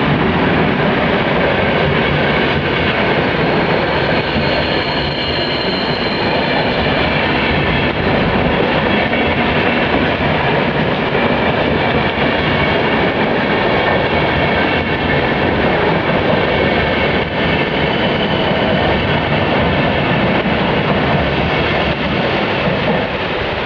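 EP09 electric locomotive and its passenger coaches passing through at speed: a loud, steady rush of wheels on rail, with faint steady whining tones in the first half.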